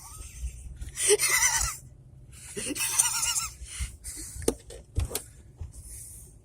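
A person laughing in two short bursts, one about a second in and one near three seconds, followed by a few sharp knocks.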